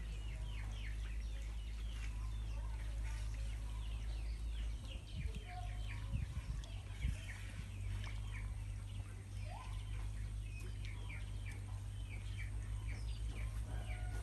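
Birds chirping: many short, falling chirps repeating several times a second, over a steady low rumble, with a few soft knocks around the middle.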